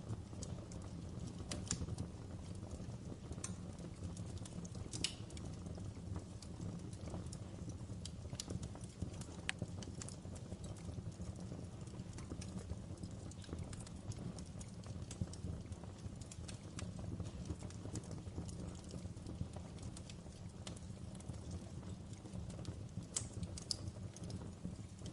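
Wood fire crackling in a fireplace: a steady low rumble with irregular sharp pops and snaps.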